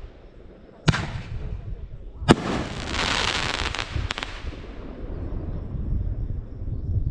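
Fireworks going off: two sharp bangs about a second and a half apart, the second and louder one followed by a crackling hiss with a few snaps that fades away, over a steady low rumble.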